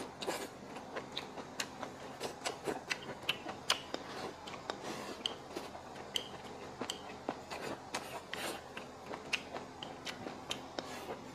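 Chewing a mouthful of stir-fried pork intestines with pickled cabbage and crisp bamboo shoots: many short, irregular crunching clicks.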